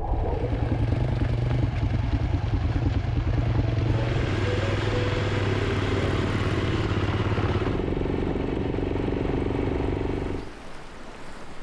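Motorcycle engine running steadily under way, a low even hum with road noise over it; the sound drops off suddenly about ten seconds in.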